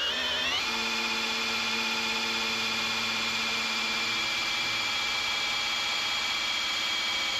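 Battery drill whining steadily as it spins the oil pump of a small-block Chevy 350 V8 to prime and pressurize the oil system; it speeds up about half a second in.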